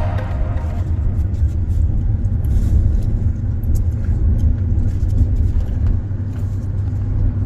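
Steady low road and engine rumble of a vehicle driving, heard from inside the cabin, with faint small rattles.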